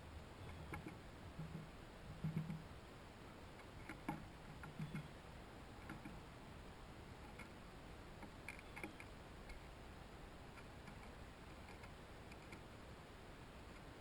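Faint, irregular ticks and clicks with a few soft knocks, most of them in the first five seconds, over a steady low hiss: small birds or chipmunks landing and pecking at a hanging seed feeder.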